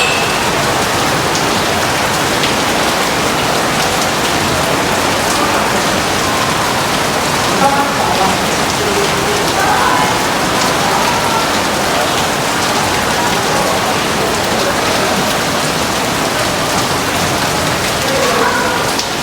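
Heavy rain falling steadily and evenly, a dense hiss of drops on surfaces.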